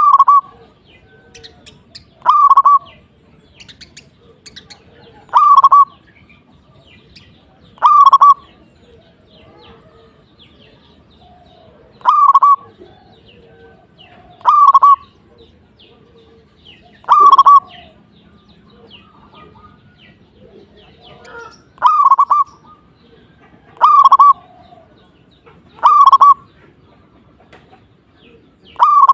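Zebra dove (perkutut) cooing: a short, loud call repeated at a steady pace about every two to three seconds, eleven times.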